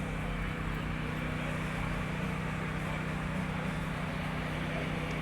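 Steady mechanical drone of an engine running at a constant speed, a low hum with several held tones over a background hiss.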